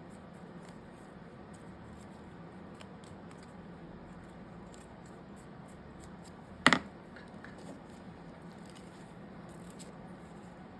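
Faint scratchy rubbing of paper being inked by hand, with one sharp click about two-thirds of the way through.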